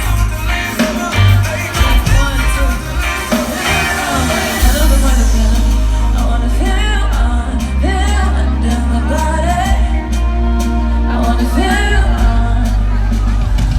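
Amplified pop music with female vocals singing a melody over heavy, steady bass, played live through a PA system at a sound check.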